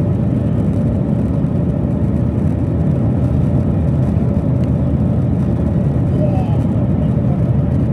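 Cabin noise inside a Boeing 737-900ER on takeoff: its CFM56-7B turbofan engines and the airflow make a loud, steady low rumble with a faint steady hum.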